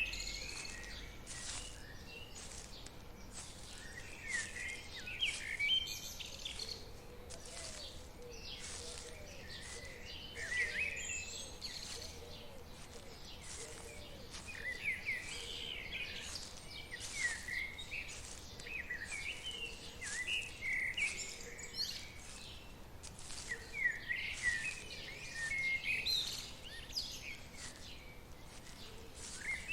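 Songbirds chirping and calling in short repeated phrases, on and off throughout, over a faint steady background hiss.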